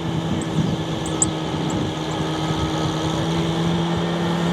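Tractor engine running at a steady speed, an even low drone with no revving.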